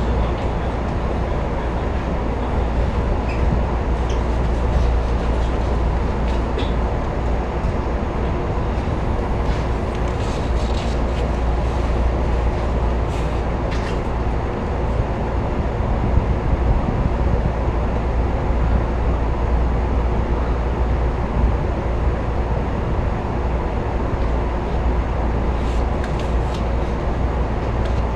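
Steady hum of a stopped electric commuter train's onboard equipment, heard inside the car, with a few faint ticks.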